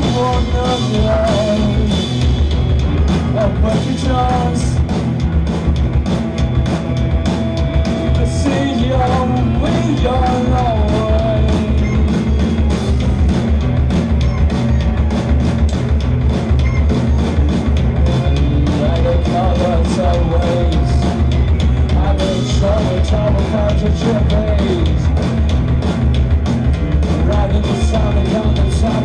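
Live rock band playing a loud, dense improvised jam with heavy bass and drums, guitars, and a voice wailing over it.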